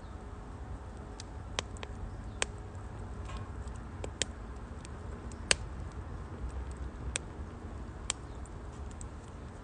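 Wood fire crackling in a Uniflame Nature Stove Large, a compact steel wood-burning stove: scattered sharp pops, the loudest about five and a half seconds in, over a low steady rumble.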